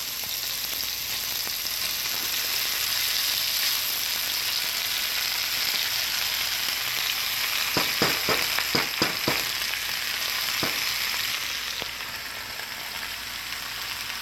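Chicken and vegetables sizzling in hot oil in a non-stick wok, a steady high hiss. About eight seconds in, a quick run of sharp knocks comes as vegetables are tipped off a plastic cutting board into the wok, with one more knock a couple of seconds later. The sizzle dies down a little near the end.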